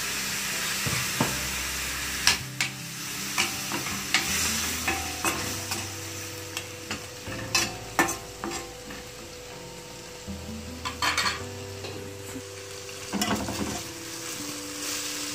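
Metal spatula scraping and clinking against a stainless-steel pan as a tomato and cashew masala sizzles in oil, in irregular clicks over a steady hiss. Near the end it switches to stirring chicken pieces frying in a cast-iron pan.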